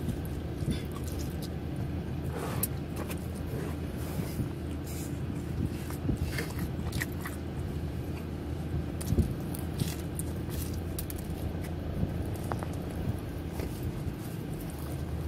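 Close-up chewing and mouth sounds, with many short wet clicks, over the steady low hum of an idling car.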